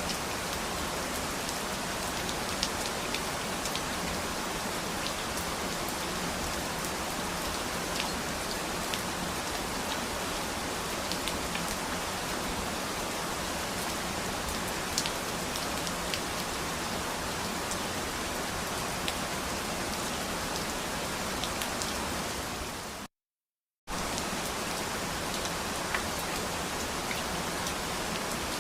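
Steady rain falling, with scattered sharp drop ticks over an even hiss. About 23 seconds in it fades quickly to a second of dead silence, then starts again abruptly.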